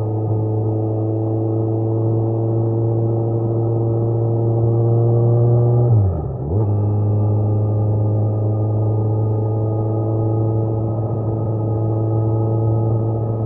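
Kawasaki Z900 inline-four engine under way, its note climbing slowly under steady throttle. About six seconds in the pitch and level dip sharply for about half a second and come straight back, after which it runs at a steady pitch.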